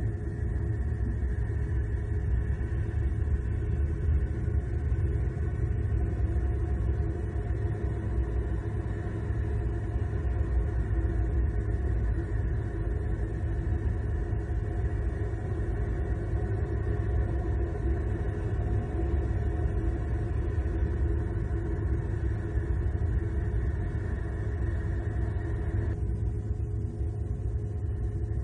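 Steady low rumble with a faint steady hum and no distinct events. About twenty-six seconds in, the upper part of the noise drops away.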